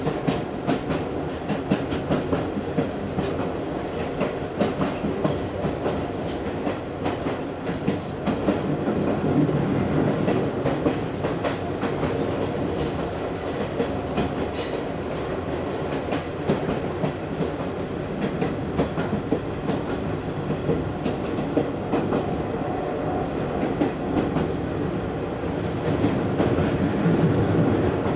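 Running noise heard inside an Izu Hakone Railway Series 3000 electric train car: a steady rumble of wheels on track with frequent clicks as the wheels pass over rail joints, swelling louder twice.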